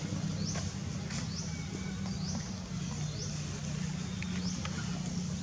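A bird repeating a short rising high-pitched call every second or so, over a steady low hum.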